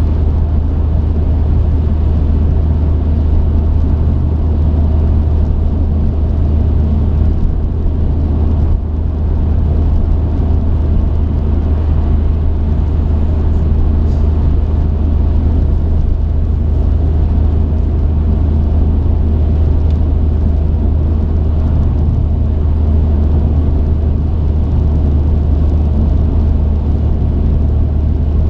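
Steady low drone of a truck on the move, engine and road noise heard from the cab, with no change in pace.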